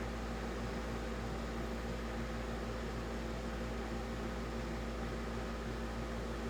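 1966 Admiral Royal 106 10,600 BTU window air conditioner running steadily: a constant hum from the unit with the even rush of its fan.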